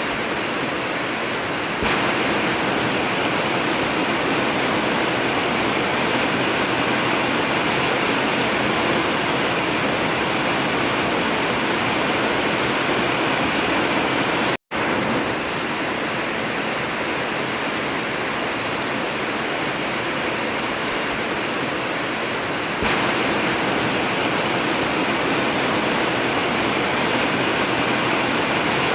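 Heavy rain drumming steadily on an old tin metal roof, an even hiss. The sound cuts out for a split second about halfway through and comes straight back, and it steps slightly louder about two seconds in and again near the end.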